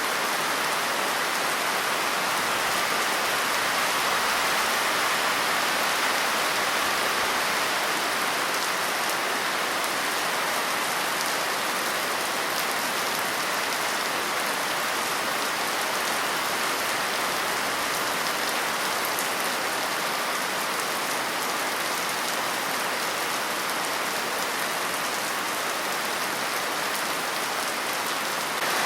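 Steady rain falling on a surface: an even, unbroken hiss with fine droplet patter.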